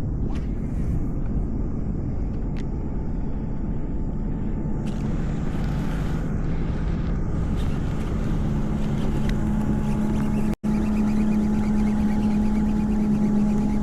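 Steady wind rumbling on the microphone. A steady low hum joins in about eight seconds in and grows a little louder, and the sound cuts out for an instant a little after ten seconds.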